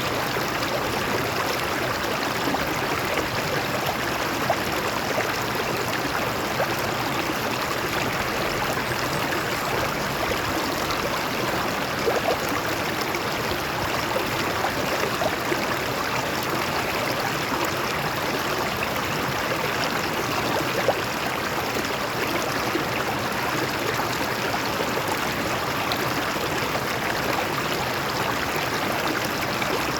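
Water of a shallow stream flowing over rocks: a steady rushing babble, with now and then a brief louder splash.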